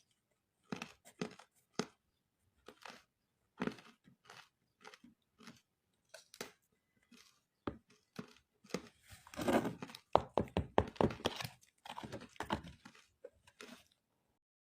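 Crunchy ice being bitten and chewed close to the microphone: scattered single crunches, then a quicker run of crunching from about nine seconds in.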